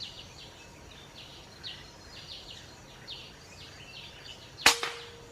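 High chirping of night insects repeating a few times a second, then about 4.7 seconds in a single sharp air rifle shot with a short ringing tone after it, taken at a roosting green pigeon.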